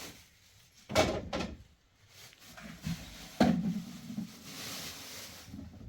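Knocks and thumps: two sharp knocks about a second in and a louder thump a little past three seconds, followed by a soft hiss.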